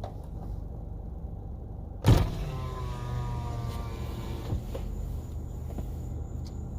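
A car's power window motor running for about two and a half seconds. It starts with a clunk about two seconds in and stops with a click, over a steady low hum.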